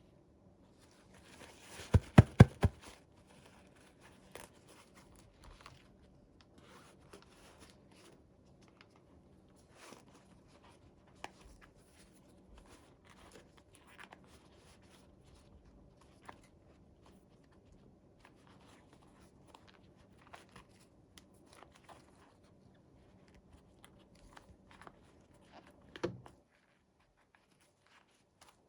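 Toy packaging being handled and opened by hand, with light rustling, crinkling and tearing. A quick run of sharp loud clicks comes about two seconds in, followed by scattered small clicks and a single knock near the end.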